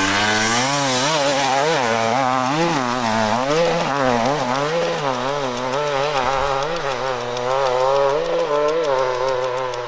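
Dirt bike engine revving hard, its pitch rising and falling quickly and repeatedly as the throttle is worked under load.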